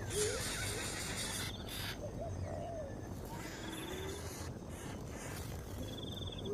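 Bird sounds: a high rasping hiss for about the first two seconds, short rising calls, and a fast pulsed trill twice, once midway and once near the end.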